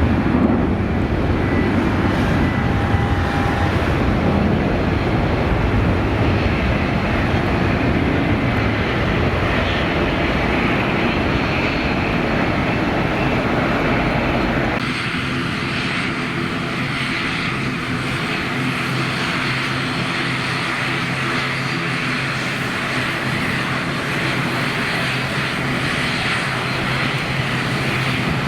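Airliner engines running loud and steady, the noise of an aircraft taking off or landing. About halfway through the sound changes abruptly to a slightly quieter engine sound with a steady low hum.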